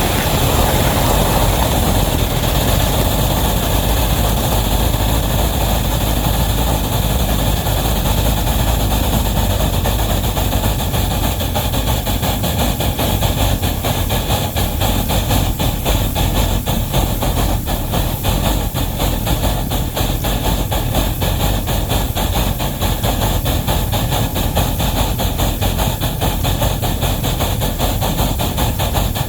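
Wabash #713 locomotive working a heavy train: a steady low rumble with a fast, even clatter.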